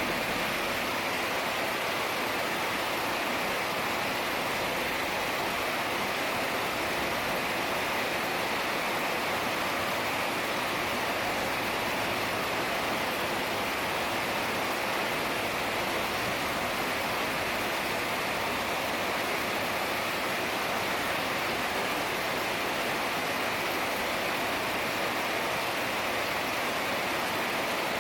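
Heavy rain falling steadily, an even continuous hiss with no breaks.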